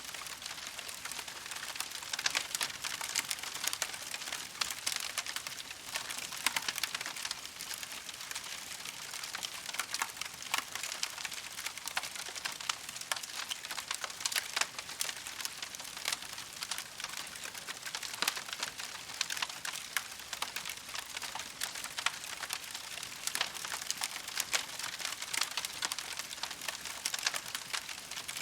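Wood campfire burning with dense, continuous crackling and snapping over a steady hiss.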